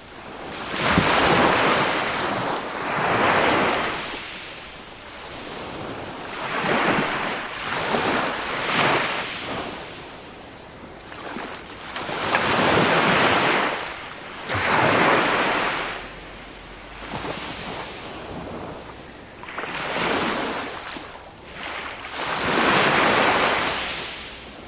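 Small waves of a calm sea breaking and washing up on a sandy beach. The surf swells and falls again every two to four seconds.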